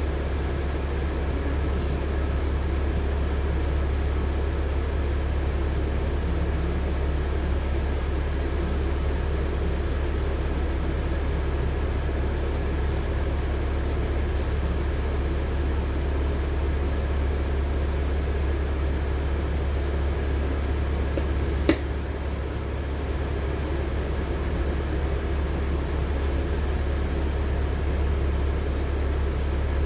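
Inside the cabin of a LiAZ-6213.65 articulated city bus: steady engine hum and running noise, with one sharp click a little past two-thirds of the way through.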